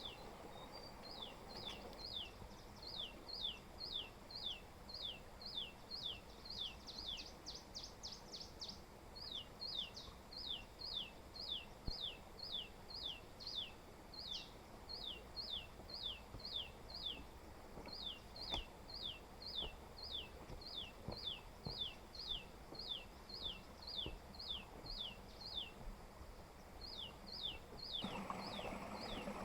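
A bird calling over and over: short, high notes, each sliding downward, about two a second in runs of three or four with brief gaps. Near the end a lower rushing noise comes in.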